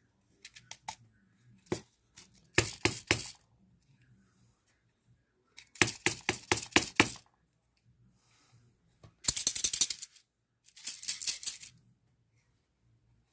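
Small pin vise drill bits rattling and clicking in their plastic case, shaken or handled in four short bursts of quick clicks.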